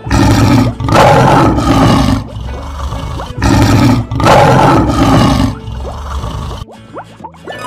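Lion roar sound effect, played twice: each time a short burst followed by a longer, loud roar.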